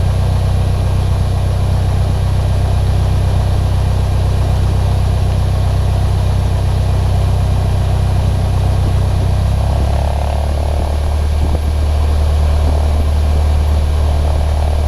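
Cessna 152's four-cylinder Lycoming engine idling as the plane taxis, heard inside the cabin as a steady low drone. Its note drops slightly about ten seconds in.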